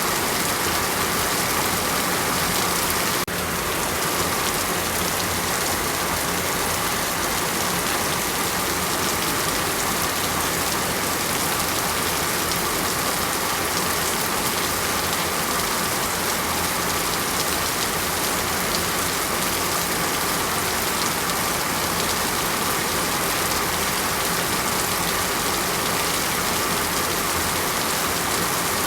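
Heavy rain falling steadily, a dense even hiss, with a slight dip in level about three seconds in.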